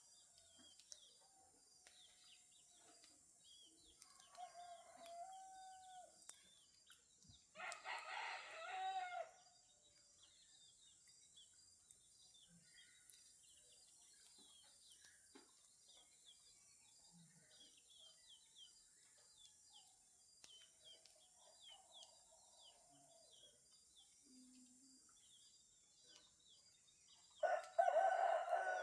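Roosters crowing in the countryside at dawn: a faint crow about five seconds in, a loud one about eight seconds in, and another loud one near the end, over constant twittering of small birds.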